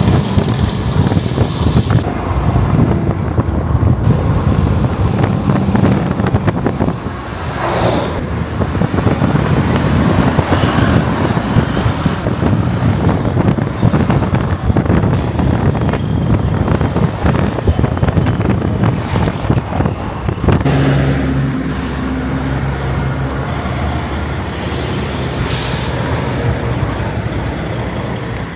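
Heavy road traffic with trucks driving past. From about two-thirds of the way through, a steadier engine note with a low hum takes over.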